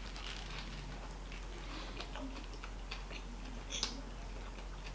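A person chewing a mouthful of burger close to the microphone: soft, scattered mouth clicks, with a sharper click about four seconds in.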